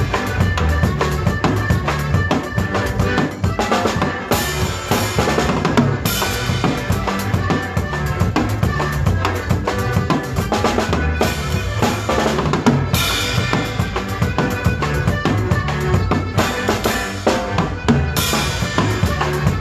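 Live conjunto band playing an instrumental zapateado: a steady drum-kit beat with bass drum and snare under a stepping bass line, without singing.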